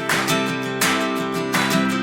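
Background music: strummed acoustic guitar, with a strum about every second.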